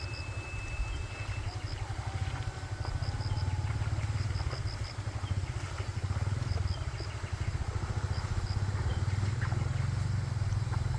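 A small engine running steadily with a low, even drone, with short high chirps in small groups over it.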